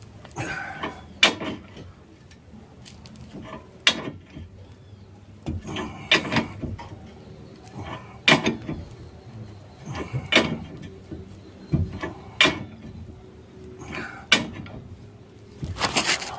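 Sharp metallic knocks about every two seconds, with scraping between them, as a hub puller is worked to draw the rear wheel hub off a Fiat Ducato van. The hub is coming free only slowly because its pressed-in bearing has jammed crosswise ("atravessou").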